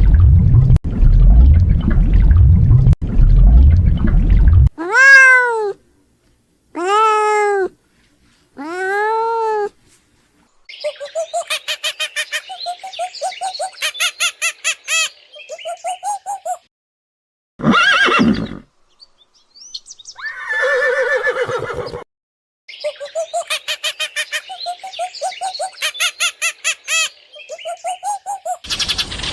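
A series of different animal calls one after another: a deep pulsing growl-like sound for the first few seconds, then three separate calls that rise and fall in pitch, then fast rattling trains of repeated notes.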